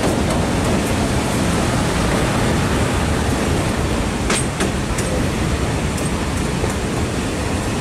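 A moving passenger train heard from the front of the locomotive: a steady rumble and rushing noise, with a couple of sharp clicks about four and five seconds in.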